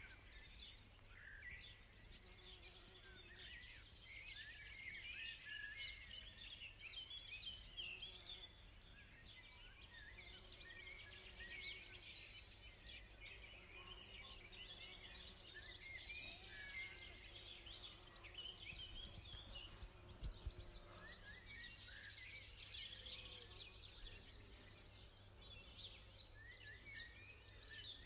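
Faint birdsong: several small birds chirping and warbling over a steady low background rumble, with a brief low bump about twenty seconds in.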